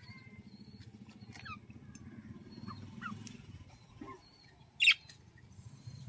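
Small birds chirping and calling in short, high notes and a few falling whistles, with one sharp, loud call about five seconds in, over a low steady rumble.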